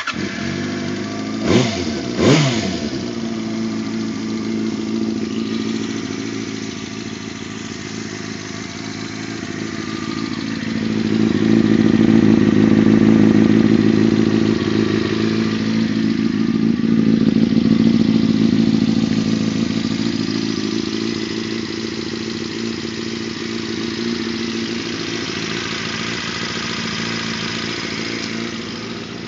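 2007 Yamaha YZF-R6S inline-four motorcycle engine with a Termignoni slip-on exhaust idling, blipped sharply twice about two seconds in. Later it swells louder twice for a few seconds each before settling back to idle.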